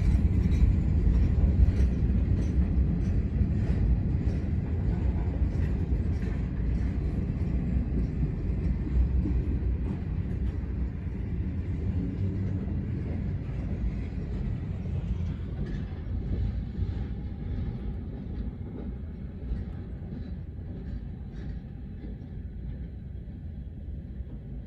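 Freight train hopper cars rolling past: a steady low rumble of steel wheels on rail with light clicks, getting gradually quieter.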